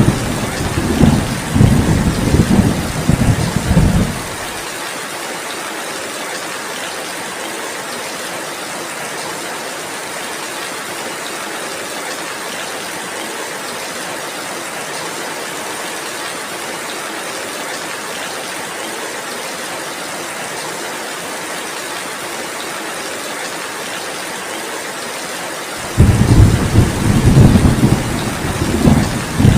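Heavy rain falling as a steady hiss, with thunder rumbling low and heavily for the first few seconds before cutting off suddenly. The rain then carries on alone until the thunder rumbles again near the end.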